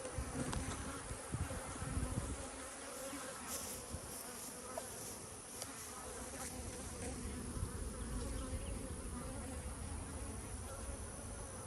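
Honeybees buzzing around their hives: a steady, continuous hum of many bees flying.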